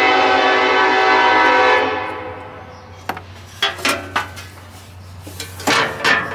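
A loud, steady horn blast that stops about two seconds in, followed by several scattered clicks and knocks.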